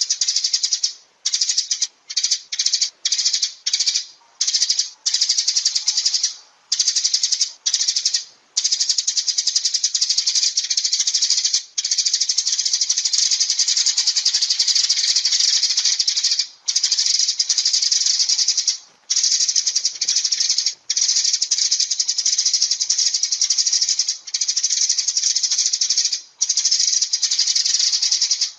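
Sparrows chirping in a rapid, dense, unbroken chatter, with brief breaks several times in the first nine seconds and a few more later.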